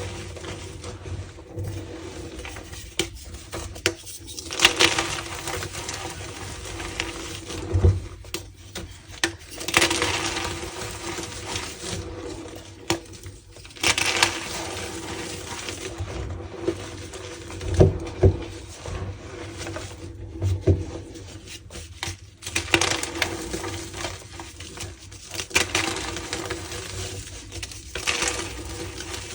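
Re-formed gym chalk blocks being crushed and crumbled, crunching and crackling in bursts every few seconds, with soft thuds in between.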